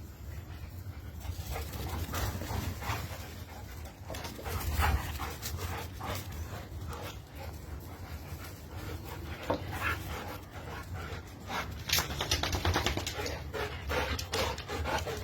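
Two dogs playing and tussling close to the microphone: breathing and scuffling noises with scattered short clicks, busiest from about twelve seconds in.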